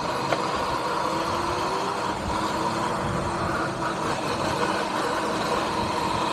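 Electric dirt bike riding along: steady wind and road noise over the body-worn camera, with a faint, steady motor whine.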